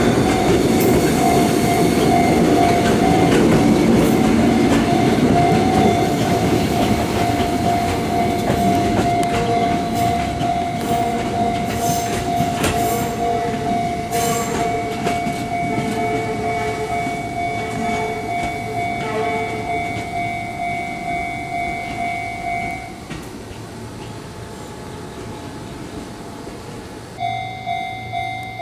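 A Fujikyuko Line electric train runs past, loud at first and then fading as it recedes, with clicking over the rail joints. A steady ringing tone sounds over it and stops a little before the end, followed by a quieter stretch and then a regular pulsing sound.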